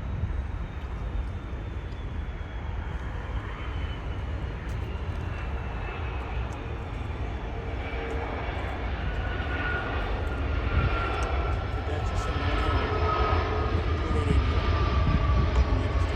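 Jet airliner engines: a heavy rumble with a thin whine that falls slowly in pitch, growing louder over the second half as the aircraft passes.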